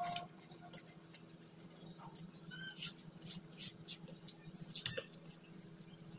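Close-up eating sounds: a man chewing a handful of rice and curry, with small wet smacks and clicks of the lips and fingers, the sharpest a little before the five-second mark. A steady low hum runs underneath.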